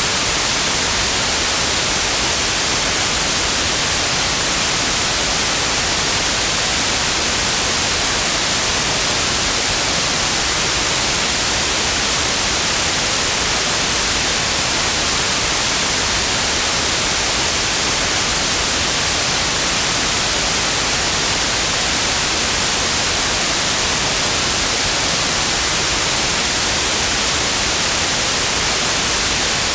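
Steady, unchanging white noise: an even hiss across all pitches, brightest in the highs, with no events or changes.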